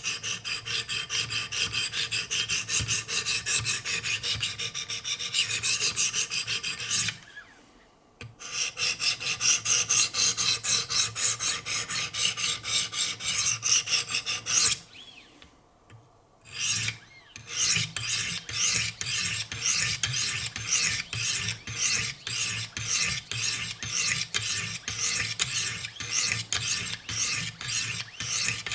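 200-grit diamond stones of a Wicked Edge guided sharpener rasping back and forth along an S90V steel knife edge in quick strokes, with two short pauses. Near the end the strokes settle into an even rhythm of about three a second.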